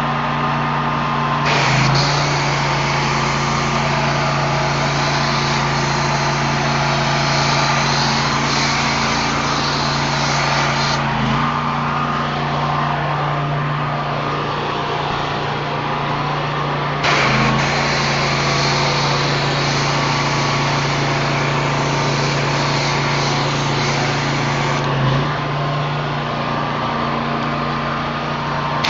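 Pressure washing rig's engine running steadily under load, with a loud hiss over it that brightens and drops back a few times.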